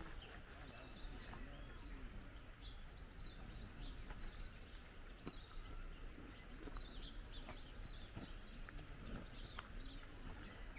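Small birds chirping, short high calls repeating every second or so, over quiet open-air background noise.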